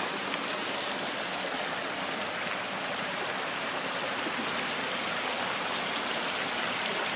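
Running water from a garden stream or cascade: a steady, even rush.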